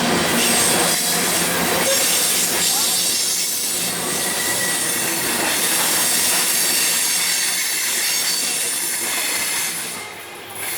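Railroad cars rolling past on the track, wheels squealing and clattering over the rail, with steady rail noise. The sound drops away sharply near the end.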